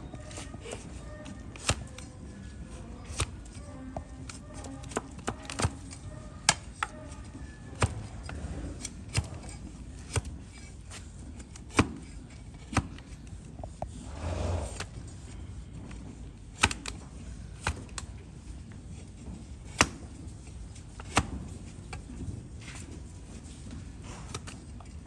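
A blade cutting donkey hoof horn during hoof trimming: sharp cuts at an uneven pace of about one every second or so. About halfway through comes one longer scrape.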